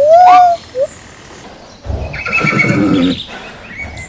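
Animal calls: a loud call that rises and then falls in pitch, lasting about half a second at the start, and a short chirp. Nearly two seconds in comes a harsher call of about a second, with a low rumble under it, like a whinny.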